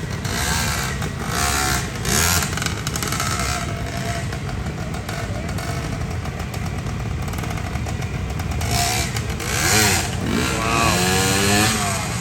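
Motorcycle engines running, with one revving up and down several times near the end.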